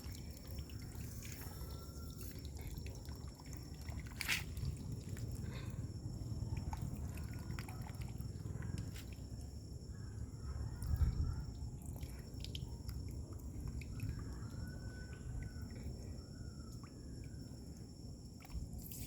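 Water trickling and dripping, with scattered small clicks, a sharp tick about four seconds in and a dull bump about eleven seconds in.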